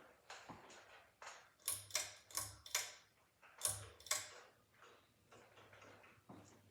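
A series of sharp clicks at an uneven pace, loudest about two to four seconds in, some with a short low hum beneath them, then fainter clicks.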